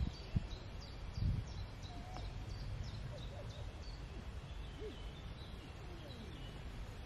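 Small birds singing in the trees, a quick run of short, high, falling chirps, over a steady low background rumble. Two soft low thumps come in the first second and a half.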